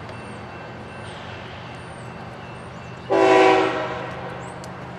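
Diesel locomotive running with a steady low rumble, then one short blast of its air horn about three seconds in, fading quickly.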